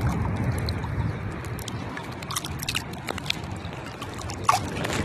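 Wind buffeting the microphone over water sloshing at the shore, with scattered small clicks and a brief falling squeak near the end.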